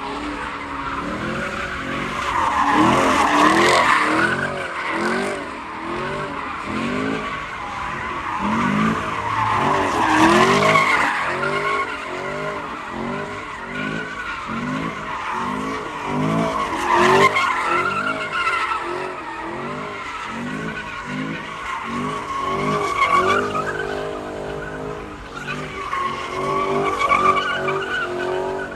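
A high-powered car doing donuts: its engine revs rise and fall over and over, about every three-quarters of a second, over steady tyre screech.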